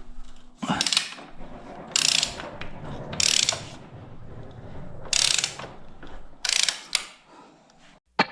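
Ratchet wrench clicking in five short runs, each a quick back-stroke driving in a bolt that holds an engine guard mounting bracket on a motorcycle frame, with handling noise between them.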